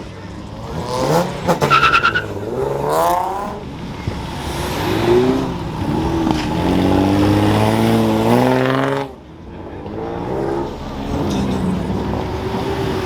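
Car engines revving, rising and falling several times with a quick run of sharp pops about two seconds in, then one long climb in revs that cuts off suddenly about nine seconds in.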